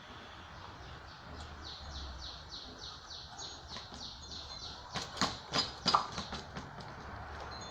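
Metal tool scraping the brushcutter's aluminium part in about ten quick, even strokes, about four a second, taking off a burr; then several sharp knocks, the loudest about six seconds in.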